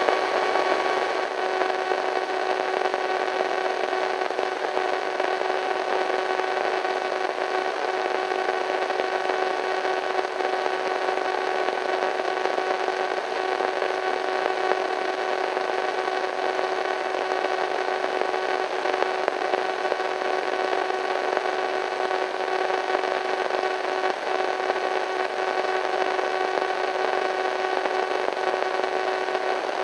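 Radio static: a steady hiss of white noise with a faint eerie hum of held tones running through it.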